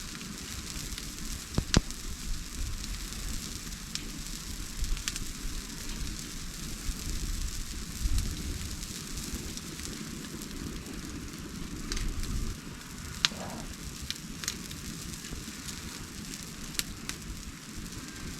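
Wood bonfire crackling: a steady hiss of burning with sharp pops scattered through, the loudest a little under two seconds in.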